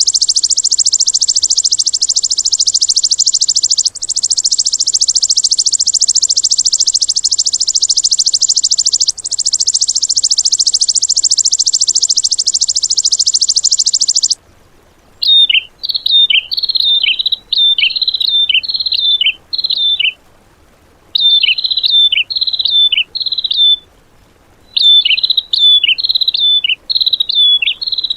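Recorded songbird song used as training material for cage birds: a long, very fast, high trill for about the first half, broken twice by brief pauses, then after a short gap, phrases of four to six short downslurred chirps separated by pauses.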